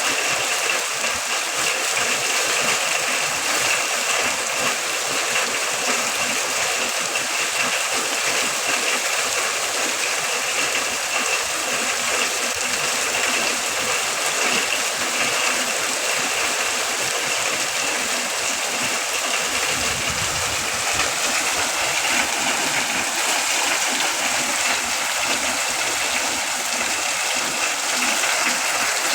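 Heavy downpour of rain: a steady, dense hiss of falling water that does not change.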